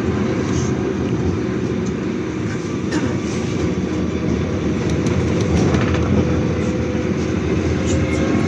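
City bus cabin noise while the bus drives: a steady engine and road drone with faint steady tones, and now and then a short click or rattle.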